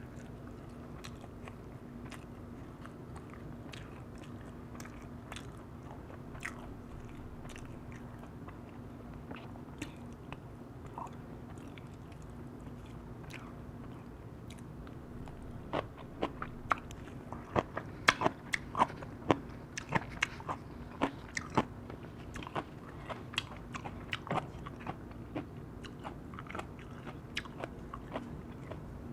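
Close-up eating sounds of a person chewing firewood-roasted chicken: wet mouth sounds and crisp crunches, with a dense run of sharp crunching clicks in the second half. A steady low hum sits underneath.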